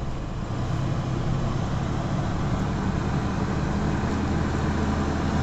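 A vehicle engine running with a steady low hum, growing slightly louder near the end, during a winch pull.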